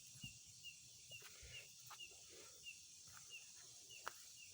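Faint outdoor sound: a short, high, slightly falling chirp repeating evenly about two and a half times a second over a steady high hiss, with a few soft knocks.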